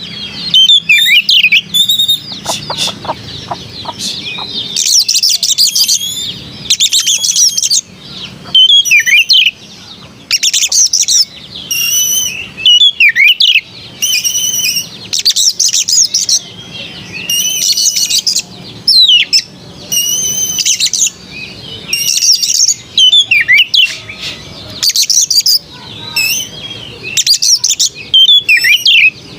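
Oriental magpie-robin (kacer) singing: a long run of loud, varied whistled phrases and quick trills, some sliding down in pitch, separated by short pauses.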